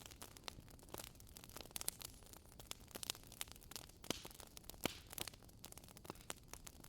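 Wood fire burning in a fireplace: a low hiss with irregular sharp crackles and pops from the burning logs, a few louder snaps among them.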